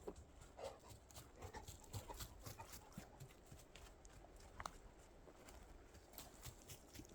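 Faint footsteps walking on snow, a steady run of soft crunching steps.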